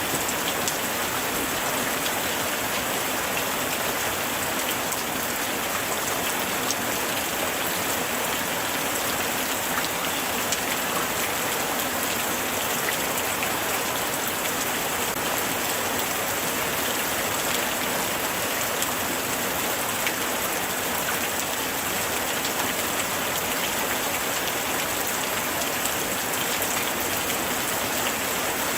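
Steady light rain falling, with a constant hiss of drops and many small drop taps on surfaces.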